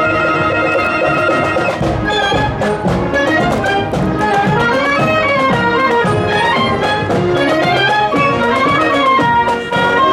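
School marching band of brass and woodwinds with drums playing on parade: a held chord, then a quick-moving tune over steady drum beats from about two seconds in.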